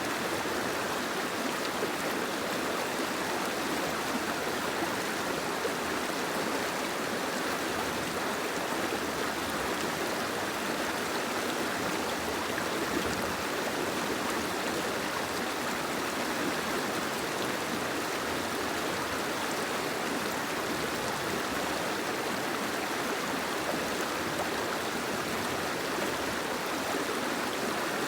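Steady rain, an even unbroken hiss of falling water.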